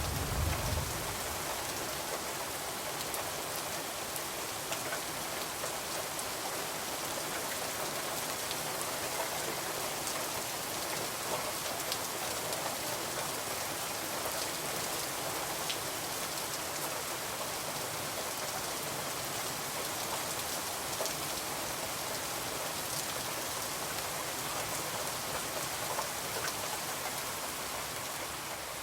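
Steady rain falling on a surface, an even dense hiss with scattered small ticks of individual drops. A brief low rumble sounds in the first second.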